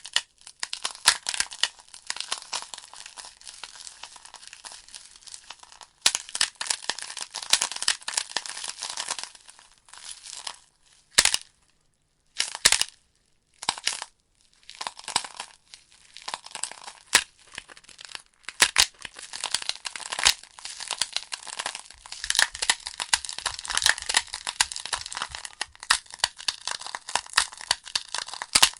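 Wood logs burning in a fireplace, crackling with dense pops and snaps. Near the middle the crackle drops almost to nothing for a few seconds, broken by three loud single snaps, then resumes.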